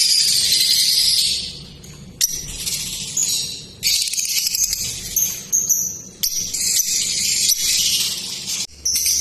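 Lovebirds chattering: a dense, shrill twitter of many high chirps, with brief lulls about two and six seconds in and a few sudden breaks.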